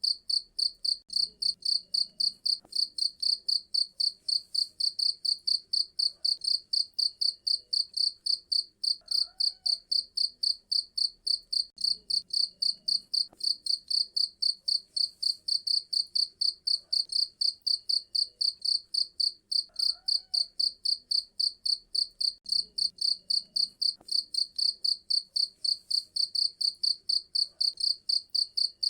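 Cricket chirping: a steady, even train of loud, high-pitched chirps, about four a second, without a break.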